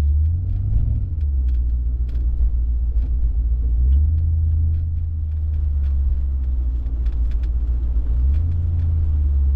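Car engine and exhaust rumbling low and steady while cruising at low speed, swelling a little twice, with scattered faint ticks over it.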